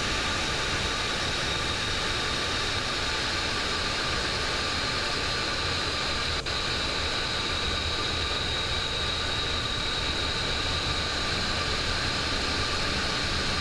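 Steady flight-deck noise of a Boeing 727 in flight on approach: an even rush of air and engine noise with a steady high-pitched tone running through it, and one brief click about halfway.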